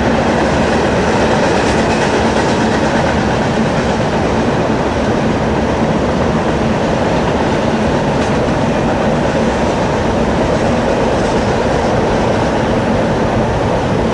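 A train rolling steadily past close by, its cars running over the rails in a loud, unbroken rumble.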